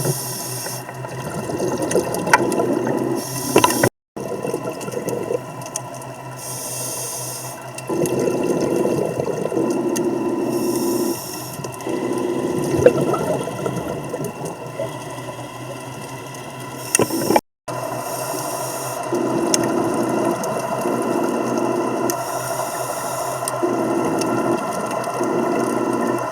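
Scuba diver breathing through a regulator, heard underwater: short hissing inhalations alternate with longer bursts of crackling, bubbling exhalation every few seconds. The sound cuts out briefly twice.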